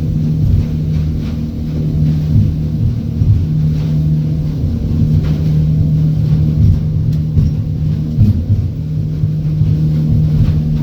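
Charter fishing boat's engine running steadily under way, a constant low hum over a rough low rumble.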